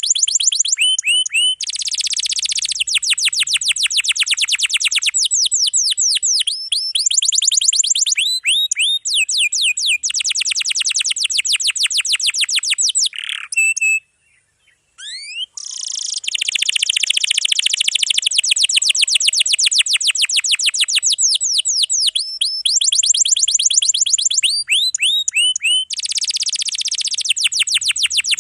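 Domestic canary singing long, rapid rolling trills, phrases of fast repeated notes alternating with sweeping chirps, with a brief pause about halfway through.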